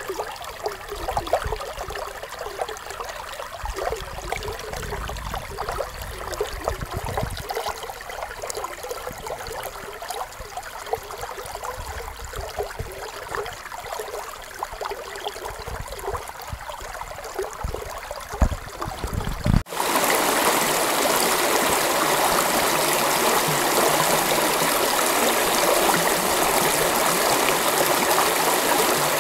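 Creek water running over rocks, gurgling and trickling, with low rumbles underneath. About two-thirds of the way through it cuts abruptly to a louder, steady rush of water from a faster stretch of creek.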